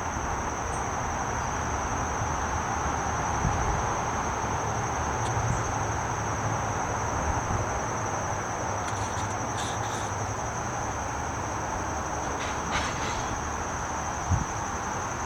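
Insects trilling steadily in one high, unbroken tone over a constant rumbling hiss.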